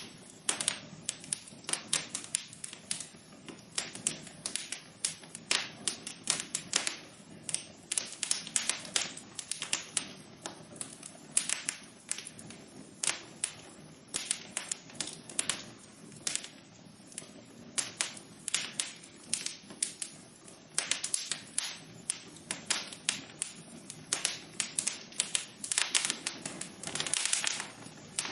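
Wood fire crackling in a fireplace: irregular sharp pops and snaps over a soft steady hiss of burning, with a quick flurry of pops near the end.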